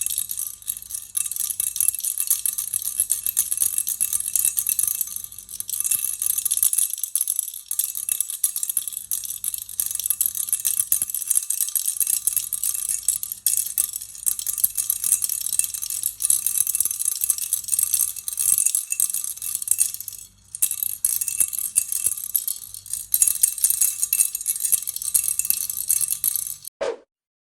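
A baby rattle shaken steadily, a dense, bright clatter of small pieces inside it. The shaking breaks off briefly about 20 seconds in and stops just before the end, followed by a short pop.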